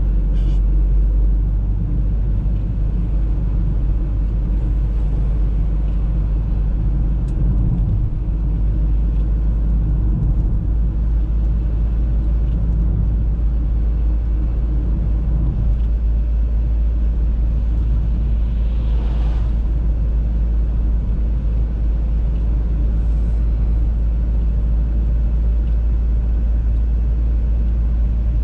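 Audi A3 on the move: a steady, low road-and-engine rumble that holds even throughout, with a faint hiss rising and fading about two-thirds of the way in.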